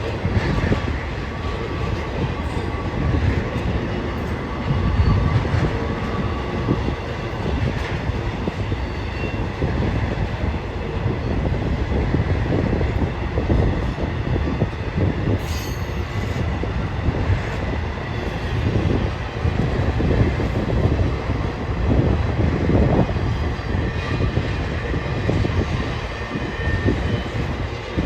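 BNSF freight train's cars rolling past, a steady loud rumble of wheels on rail with faint wheel squeal.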